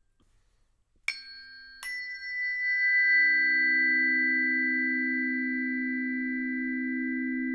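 Two tuning forks struck one after the other, about a second in and again less than a second later, each with a bright metallic ping, then ringing on together as a steady low hum of two close tones.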